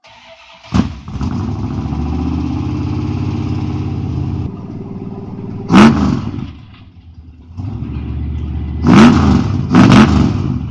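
A freshly tuned-up 1988 Dodge Ram W100's V8 engine starts about a second in and runs steadily. It is then revved sharply three times, each rev rising and falling quickly.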